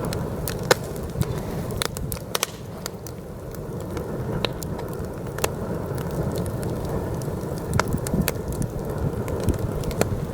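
Campfire crackling with many irregular sharp pops, over the low rumble of heavy wind blowing.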